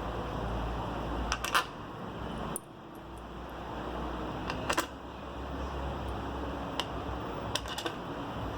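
Light metallic clicks and taps of small screws being handled and set into a motorcycle engine's side cover: a few scattered clicks over a steady background hiss.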